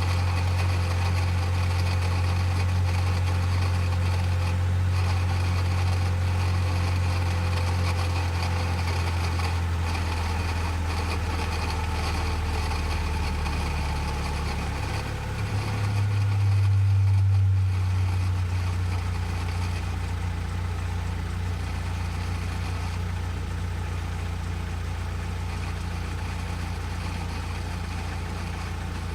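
Abarth car idling after a cold start, a steady low hum that shifts in pitch about halfway through, is briefly louder, then settles a little lower. It carries an abnormal noise whose cause was the 3rd/4th-gear synchronizer rings in the gearbox.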